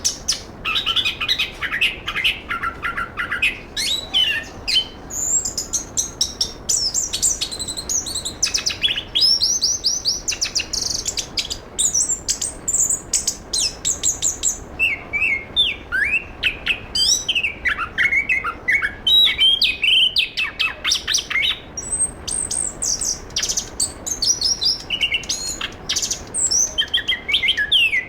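Chestnut-capped thrush (anis kembang) singing a continuous, fast, varied song: rapid runs of high chirps, trills and quick up-and-down whistles with hardly a pause.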